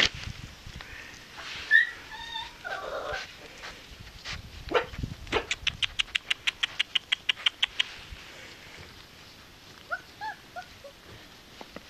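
Turkmen alabay puppies whimpering: a few high whines about two seconds in and a short run of rising whimpers near the end. Between them comes a rapid, even run of clicks, about nine a second for two seconds.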